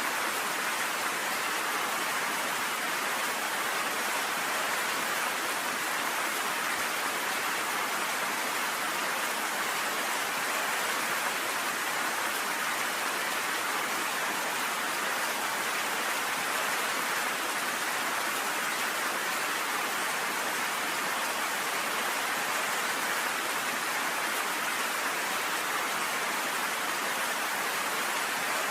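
Steady rain pelting down on a cabin porch, an even, unbroken hiss.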